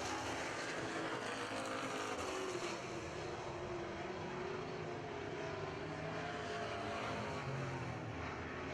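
Super truck race engines running on a dirt oval, a steady drone whose pitch rises and falls slowly as the trucks work around the track.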